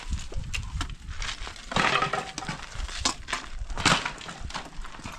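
Building debris crunching and breaking, with irregular sharp knocks and clinks. The densest crunching comes about two seconds in and a hard knock comes near four seconds.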